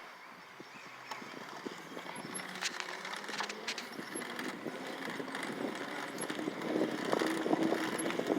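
Bicycles riding along a road: steady tyre and rattle noise with scattered sharp clicks, and a steady hum joining near the end.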